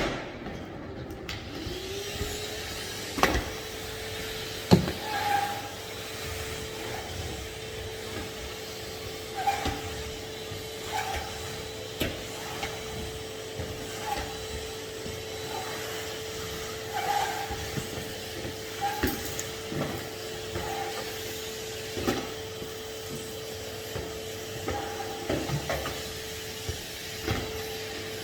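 Henry HVR200 620 W vacuum cleaner motor spinning up about two seconds in, then running at a steady hum, with irregular knocks and clatters of the hose and nozzle against the floor and furniture.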